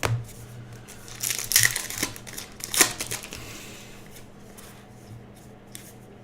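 Baseball trading cards being handled and flipped through one by one: crisp slides and clicks. They are loudest in the first three seconds and thin to faint ticks after that.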